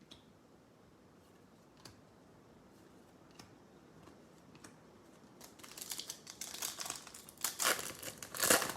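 Foil wrapper of a trading-card pack being torn open and crinkled, with cards being handled. A few faint ticks come first, then the crinkling starts about five and a half seconds in and gets louder toward the end.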